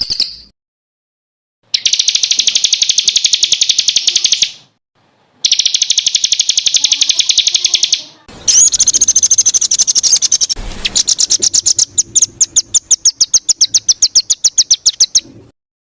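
A songbird singing rapid 'tembakan' trains: three long bursts of fast, evenly repeated high notes, separated by short pauses. The last burst pitches higher and breaks into slower, separate notes before it stops.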